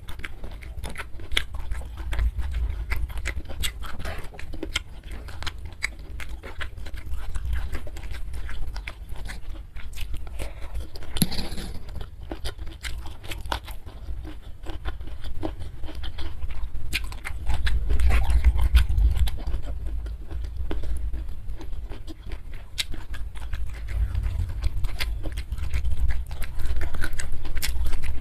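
A person chewing food close to the microphone, mukbang-style, with many small mouth clicks and smacks over a steady low rumble.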